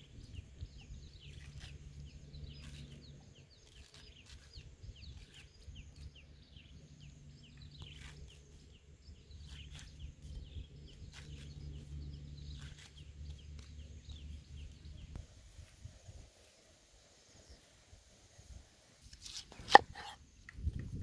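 Small birds chirping over a low steady hum, which fades about three-quarters of the way through; near the end comes a single sharp knock.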